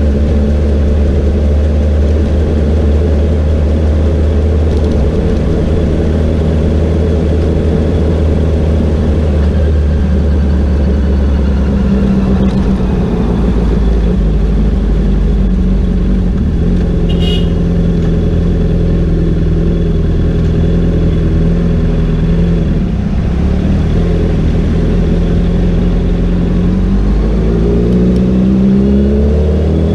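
Honda CBR650R's inline-four engine running under way with road and wind rush. The engine holds a steady note, steps to a new one about twelve seconds in, and rises in pitch near the end as the bike accelerates. A brief high chirp comes around the middle.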